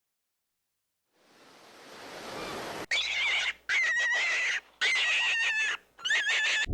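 A rush of noise swells up, then an animal gives four wavering, high whistle-like calls, each under a second long, with clicks among them.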